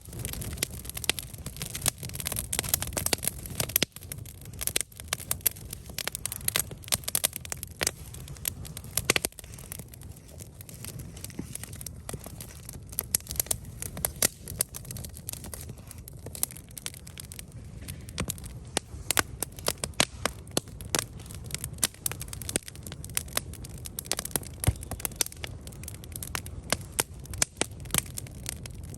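Wood campfire burning, crackling and popping irregularly, with a steady low rumble beneath.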